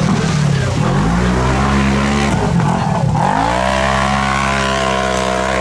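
Off-road mud truck engine revving hard under load. Its pitch drops and climbs twice, then rises and holds high from about three seconds in.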